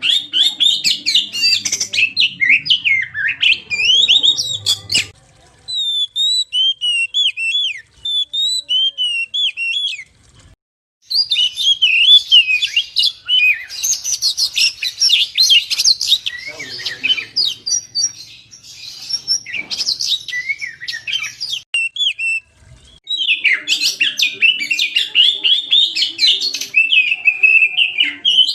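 Oriental magpie-robin (kacer) singing in full song: fast, varied runs of chirps and whistles, broken by a few short pauses.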